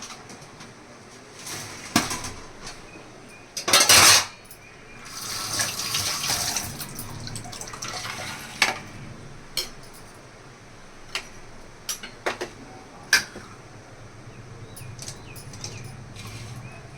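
Kitchen work sounds: a tap runs for a couple of seconds, with dishes and utensils knocking and clinking now and then, the loudest knock about four seconds in.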